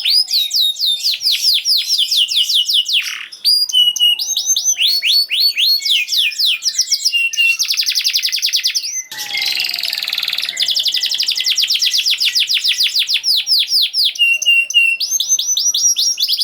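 Domestic canary singing fast, tightly packed trills: long runs of rapidly repeated down-slurred notes that change from one tour to the next, with two short breaks.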